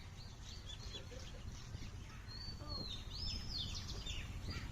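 Several birds chirping and calling in quick short notes, with one longer held whistle about halfway through followed by arching chirps, over a steady low rumble.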